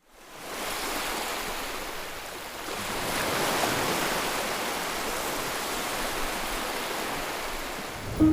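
Steady rushing noise, fading in at the start and swelling a little around the middle.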